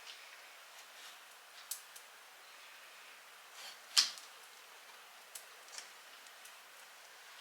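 A few scattered light clicks, with one sharper tap about four seconds in.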